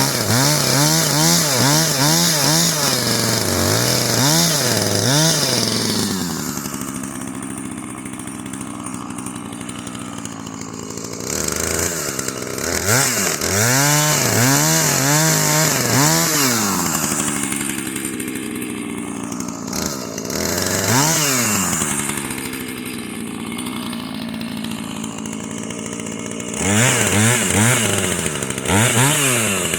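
Husqvarna two-stroke chainsaw, its engine revved up and down over and over, about two rises and falls a second, in three spells. Between the spells it runs steadier and quieter at a lower speed.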